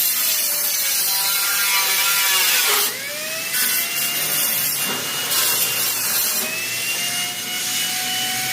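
Angle grinder working on the sheet-metal body panel, a loud abrasive hiss over the motor's whine. About three seconds in the whine sags as the disc is pressed in under load, then it climbs back up as the load eases.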